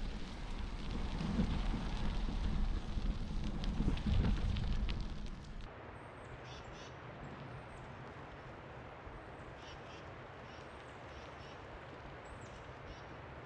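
Wind rumble and rolling noise from a bicycle ride for about the first six seconds, cutting off suddenly. Then a quieter outdoor background with birds giving short high chirps.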